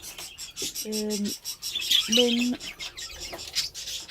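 A roomful of budgerigars chattering and chirping continuously, a dense busy flock chatter.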